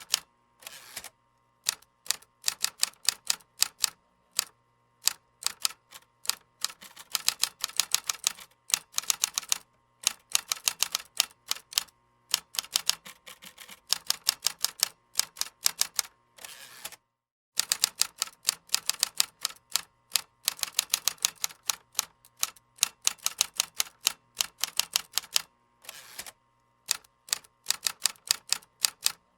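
Computer keyboard typing: runs of rapid key clicks broken by short pauses. There is a brief dead-silent gap a little past halfway.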